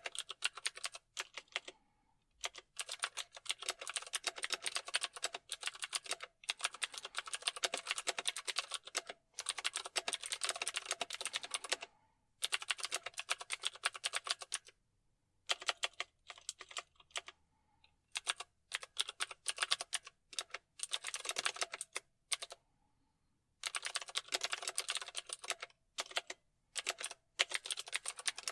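Typing on a computer keyboard: rapid runs of key clicks, broken by short pauses every few seconds.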